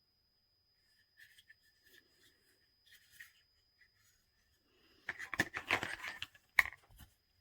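Light rustling and clicking of something being handled, then a louder cluster of clicks and rubbing about five seconds in, with one sharp knock near the end.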